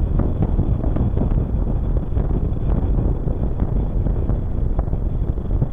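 Saturn V first-stage F-1 rocket engines, a steady low rumble full of crackle, heard in an archival recording with a dull, cut-off upper range.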